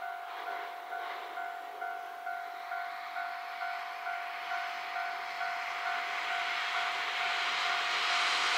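JR West 521 series electric train approaching, its running noise growing steadily and loudest near the end. Under it, a level-crossing bell rings steadily about twice a second.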